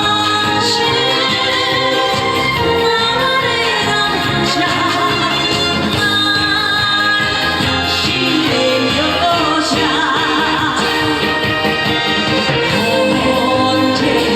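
A woman singing a trot song with wavering vibrato over instrumental accompaniment.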